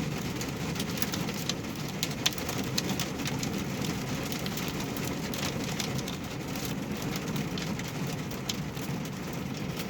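Wintry mix of rain and ice falling and pattering steadily on surfaces, with scattered sharper ticks of single drops striking.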